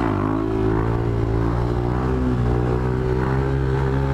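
Yamaha Fazer 250's single-cylinder four-stroke engine under way: the revs climb at the very start, then hold steady at an even, fairly high pitch.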